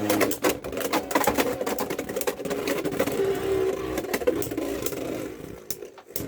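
Two Beyblade X spinning tops, Hells Reaper and Dran Brave, whirring and clattering against each other in the plastic stadium, with many sharp clicks of collision. The whirring dies down about five and a half seconds in as the tops lose spin.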